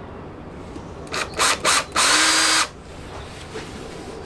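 Power drill fitted with a stepped cone cutter, starting a 22 mm hole in the car's steel chassis. It is given a few short bursts, then a louder run of about half a second that ends abruptly.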